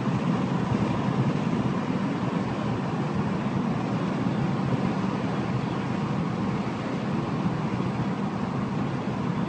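Steady noise of a vehicle driving, engine and tyres on the road, with no sudden changes.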